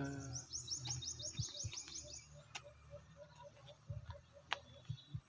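Birds calling: a quick run of about a dozen high, falling chirps in the first two seconds, then a steady series of short, lower notes about four a second, over a low steady rumble.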